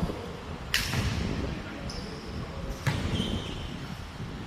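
Basketball hitting a hard gym floor twice, about two seconds apart, with short sneaker squeaks on the court in between.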